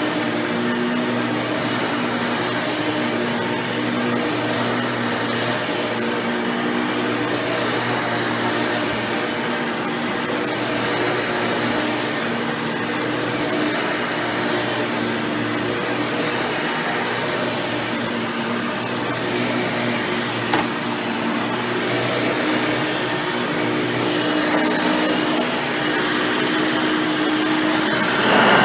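Hoover Power Drive Supreme upright vacuum running steadily, its motor fitted with an upgraded 20-blade impeller fan: a rush of air over a steady motor hum. There is one short click about twenty seconds in, and a brief louder surge at the very end.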